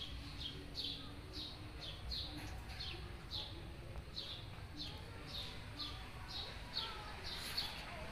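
A small bird chirping over and over, short high falling chirps at about two to three a second, over a faint low background rumble.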